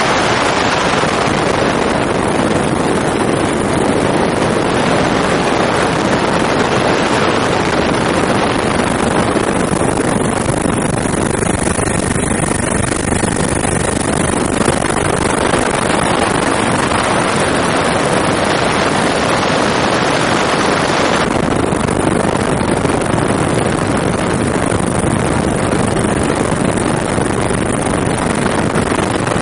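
Helicopter in flight heard from on board: a loud, steady noise of the rotor and engine with a faint high whine on top.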